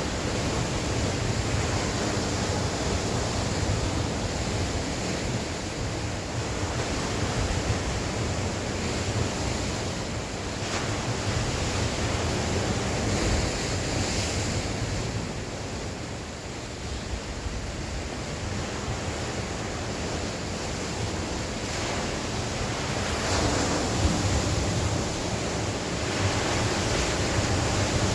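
Sea waves washing ashore in rolling swells that rise and ease every few seconds, with wind buffeting the microphone.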